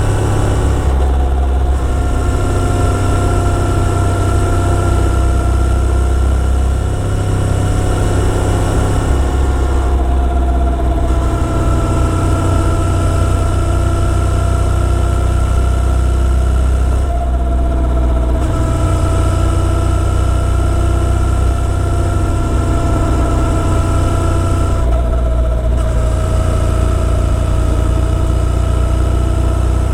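Motorcycle engine running steadily while riding, with a short dip in its sound about every seven to eight seconds.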